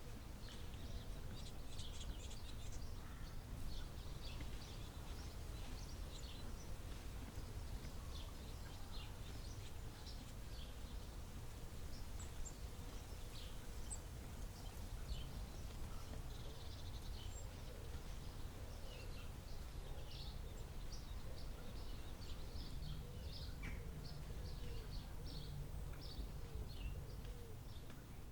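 Several songbirds chirping and trilling, short high calls scattered throughout, over a steady low rumble of background noise.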